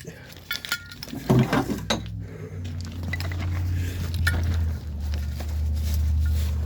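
Metal plumbing parts clinking and knocking as they are handled, a few short clinks in the first two seconds, followed by a steady low hum from about midway.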